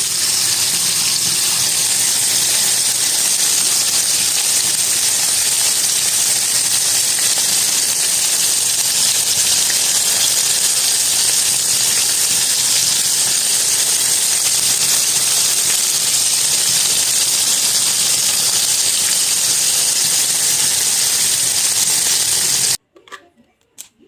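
A loud, steady rushing hiss that cuts off abruptly near the end.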